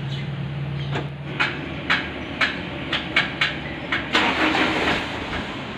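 Sharp knocks, roughly two a second, over a steady low mechanical hum, with a rushing hiss coming in about four seconds in.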